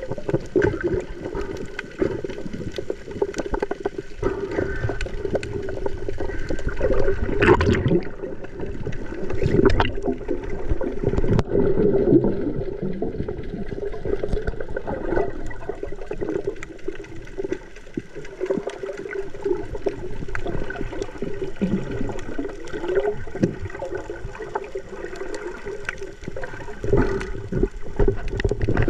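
Water sloshing and gurgling continuously, with scattered sharp clicks and splashes.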